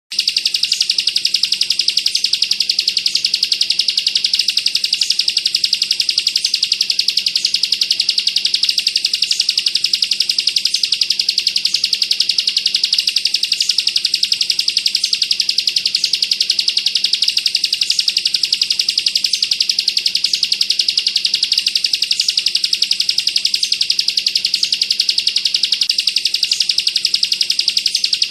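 Bar-winged prinia (ciblek) singing its 'bren' song: a rapid, unbroken machine-gun trill of high notes, with a brighter accent about every second and a half.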